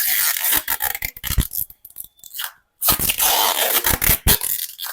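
Packing tape being pulled off the roll and pressed around a pair of scooter batteries. It makes a rasping, ripping sound in two stretches, with a short pause about two seconds in.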